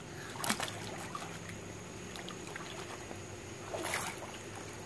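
Swimming-pool water splashing and lapping, with a short splash about half a second in and a bigger one about four seconds in, over a steady low hum.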